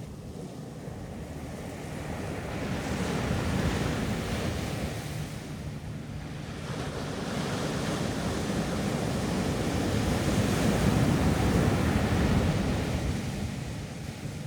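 Ocean surf breaking and washing up a beach, swelling twice: a wave about three to four seconds in and a longer one peaking about eleven seconds in.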